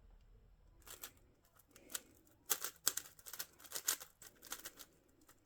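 Plastic twisty-puzzle cube being turned by hand: a couple of single clicks, then a quick run of clicking turns from about two and a half seconds in until near the end.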